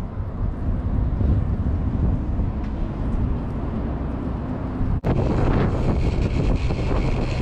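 Strong wind buffeting the microphone in a snowstorm: a steady low rumble of wind noise. About five seconds in, the sound breaks off sharply and resumes with more hiss in it.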